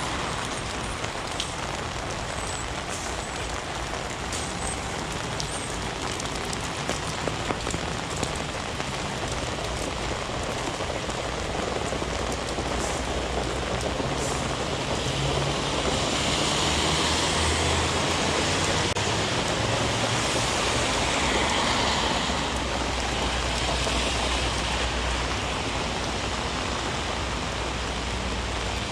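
Heavy rain falling steadily on a city street, with a few sharp drip ticks in the first several seconds. A vehicle passes through the middle, adding a low rumble that swells and fades.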